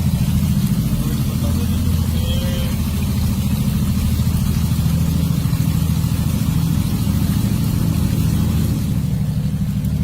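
An engine running steadily with a low drone, as of a motor vehicle.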